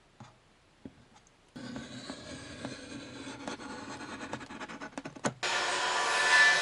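Woodworking noises: scratching and rubbing with many small knocks starting about a second and a half in, then a louder steady noise from about five seconds in.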